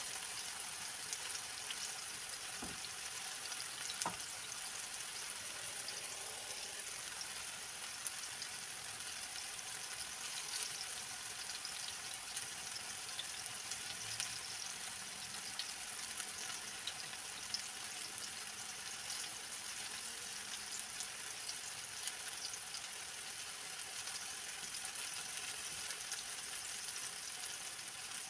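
Plantain slices frying in hot oil in a non-stick pan, a steady sizzle with fine crackling. A few sharp clicks of a metal fork against the pan as the slices are turned.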